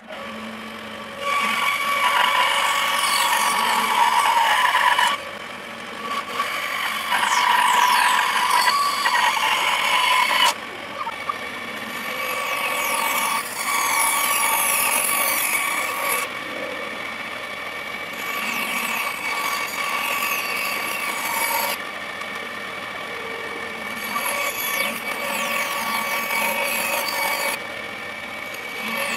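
A power tool with a steady motor whine abrading a workpiece, with a rasping, rubbing noise over the whine. The sound jumps in level at several abrupt cuts a few seconds apart.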